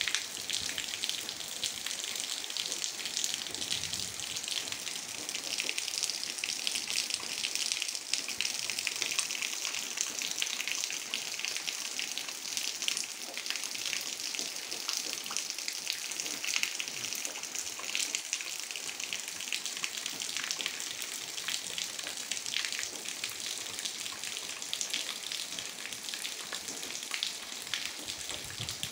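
Steady gentle rain, a dense even patter of drops.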